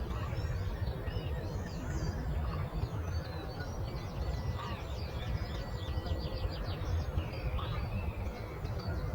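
Several songbirds chirping and singing, with a quick run of chirps in the middle, over a steady low rumble.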